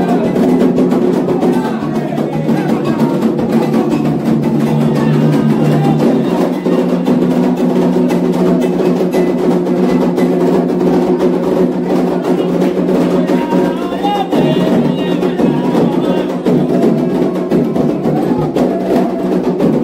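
Candomblé atabaque drums playing a fast, dense rhythm for Xangô, with voices singing over them.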